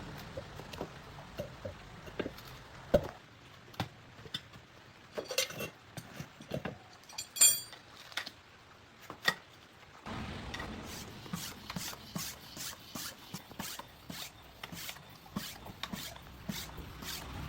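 Hand tools at work in a motorcycle tyre repair: scattered clicks, knocks and scraping, with a short high-pitched metallic squeal about halfway. From about ten seconds in there is a steady background noise with quick, regular ticking.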